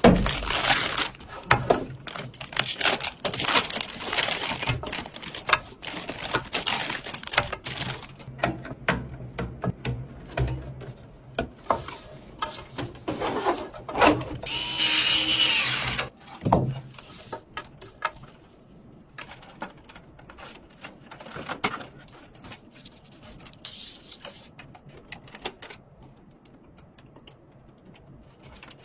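Irregular clicks and knocks of computer parts being handled, busier at first and sparser later. About halfway through comes a whir of a small motor lasting about a second and a half.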